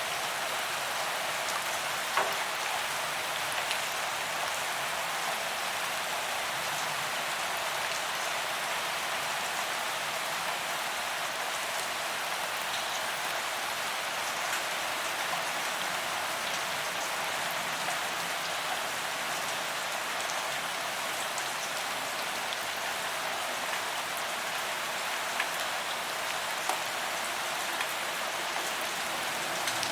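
Steady rain falling on a paved promenade, an even hiss of drops hitting the pavement with a few louder single drips standing out.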